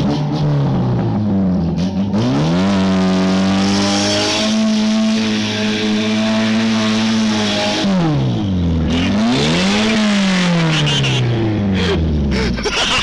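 Classic Lada's four-cylinder engine driven hard on a gravel road: its revs climb about two seconds in and are held high, drop sharply and come back about eight seconds in, then wind down near the end. Tyres hiss over the gravel while the revs are high.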